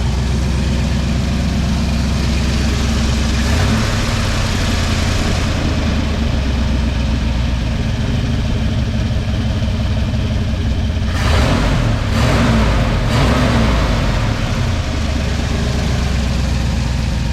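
1979 Ford F-150's V8 engine idling steadily, picking up speed briefly a few seconds in and again past the middle, with a louder rush of noise for a couple of seconds near the middle.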